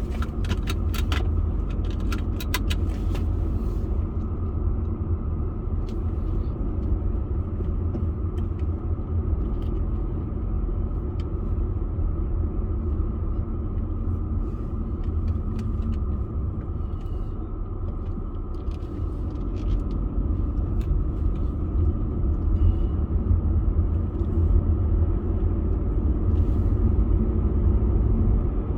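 Steady low rumble of a car driving, road and engine noise with no change in pace. A quick run of sharp clicks comes in the first few seconds, and faint scattered ticks follow.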